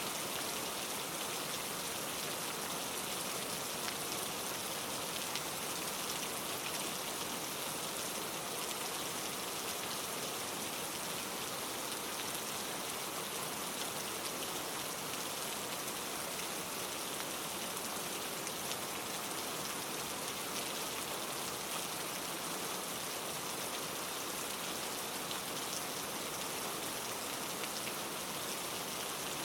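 Steady rain falling, an even hiss with fine scattered patter of drops.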